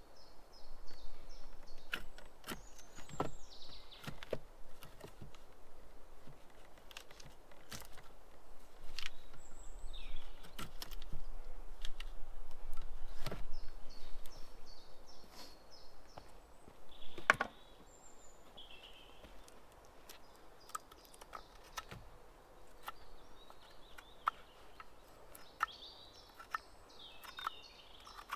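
Small birds chirping and twittering, with scattered sharp knocks and clicks. A steady background noise is louder for the first half and drops away about seventeen seconds in.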